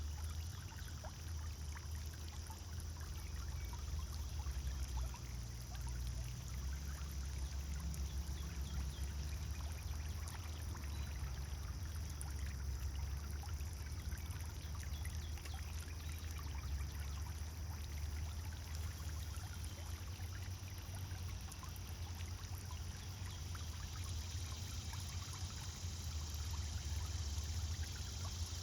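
Pond fountain splashing and trickling steadily into the water, over a low rumble.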